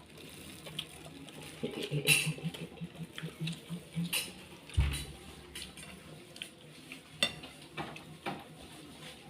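Spoon and fork clinking and scraping against a bowl while noodles are stirred, with scattered sharp clicks. A soft low thump lands about five seconds in.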